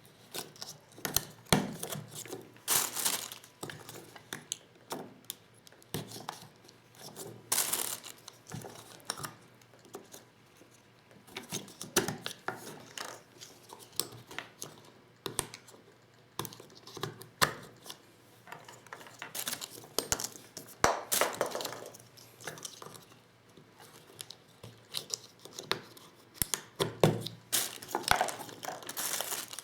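Handloading 12-gauge shotgun shells with a Lee Loader hand kit: irregular clicks, taps and rattles of plastic hulls and small metal tools being handled, broken by a few longer rustling bursts of a second or two.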